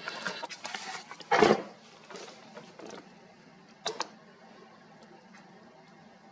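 Rustling and clicking noises over a low steady hum, with one loud short knock about a second and a half in and a sharp double click about four seconds in.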